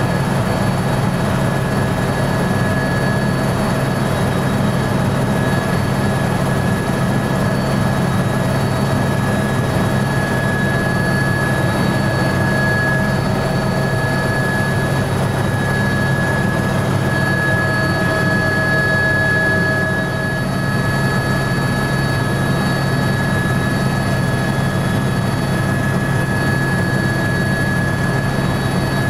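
Helicopter engine and rotor noise heard from inside the cabin: a loud, steady drone with an unchanging high whine over it.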